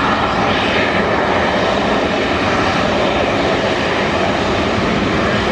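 Aircraft engine noise, a loud, steady rush that holds throughout.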